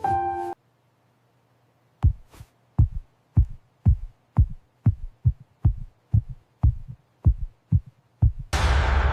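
Heartbeat sound effect: low thumps in lub-dub pairs, about two beats a second. Before it, piano music stops short and there is a short silence; near the end a loud crashing hit with a long fading rush cuts in.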